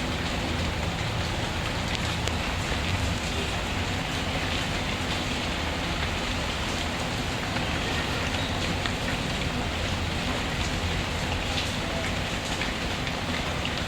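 Steady rainfall, an even hiss of drops on a surface, with faint scattered crackles from a wood fire.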